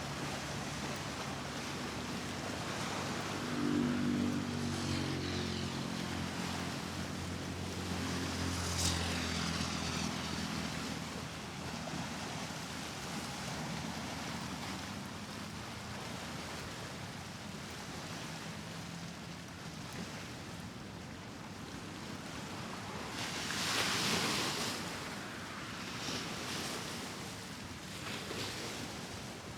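Outdoor street ambience: a steady wash of noise, with a motor vehicle's engine hum shifting in pitch as it passes in the first ten seconds or so, and another whooshing pass that swells and fades about 24 seconds in.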